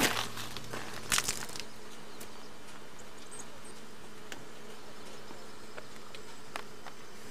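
A steady buzz, typical of insects, with a few sharp clicks about a second in.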